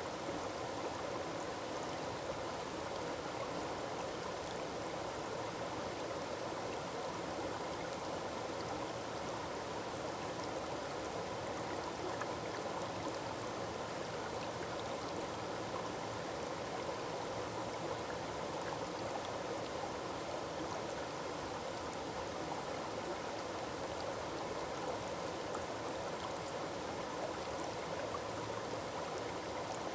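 Forest waterfall: water falling and rushing over rocks in a steady, unbroken wash.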